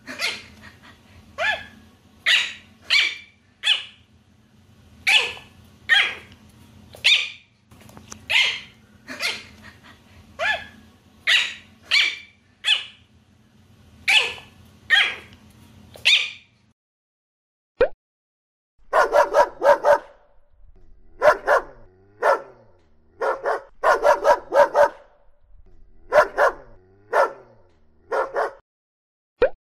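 Dog yapping in short, high-pitched yips, about one a second. After a pause of a couple of seconds, lower-pitched barking follows in quick runs of two or three.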